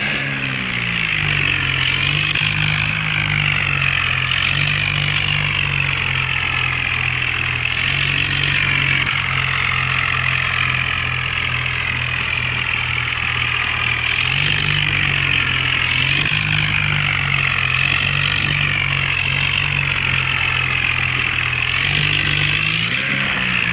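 Toy tractor running: a steady low engine-like hum that shifts pitch a few times, over a wavering high whine from its small electric motor, with short bursts of hiss now and then.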